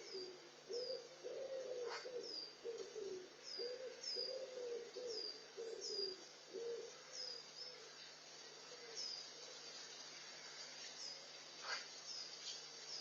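Wood pigeon cooing in repeated low, hooting phrases that stop about halfway through, while a small songbird repeats a high, down-slurred chirp over and over.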